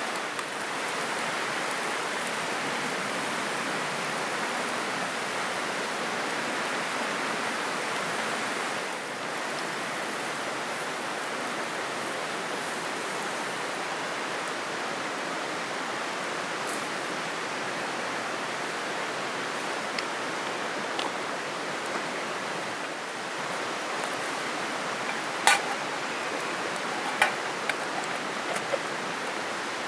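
Steady rushing of a river, with a few sharp clicks or taps near the end.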